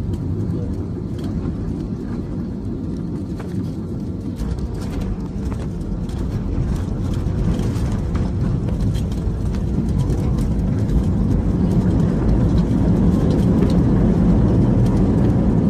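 Cabin noise of an Airbus A320-200: a steady low rumble of engines and airflow with a faint hum, growing louder over the second half.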